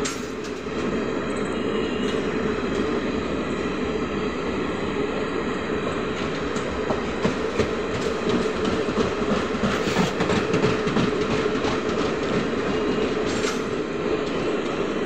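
Garib Rath Express ICF air-conditioned coaches rolling past a platform: a steady rumble of wheels on rail, with repeated clicks as the wheels cross rail joints.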